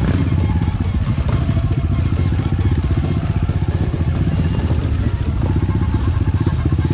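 Enduro dirt bike engine running steadily, a fast even pulse with no marked revving up or down.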